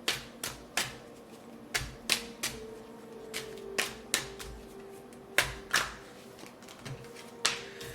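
Tarot cards being handled on a table: a string of sharp, irregularly spaced clicks and taps as cards are shuffled, knocked and laid down.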